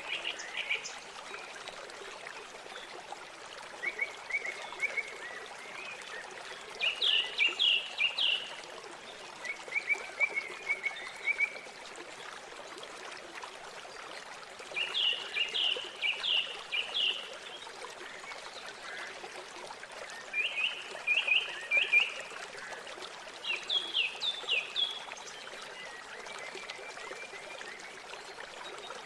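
River water flowing with a steady rushing hiss, while songbirds sing. Several short phrases of quick, slightly falling notes come every few seconds, with fainter trills between them.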